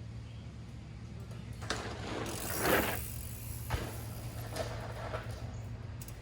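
Mountain bike ridden over a dirt jump: the coasting rear hub ticks and the tyres rush over the dirt, swelling about two and a half seconds in, with a sharp knock about a second later as the bike lands.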